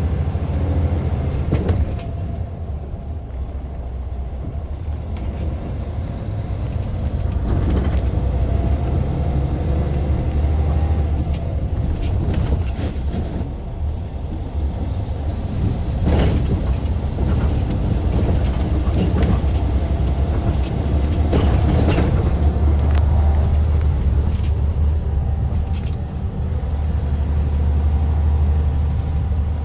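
Hyundai D6CC Powertec 380 inline-six diesel of a Hyundai Universe Comfort coach running under way, a heavy low drone whose pitch rises and falls with throttle, with a few brief dips in level. Light rattles and clicks sound over it.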